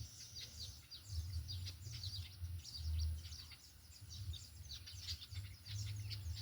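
Many small birds chirping at once in quick, falling notes, over a low uneven rumble.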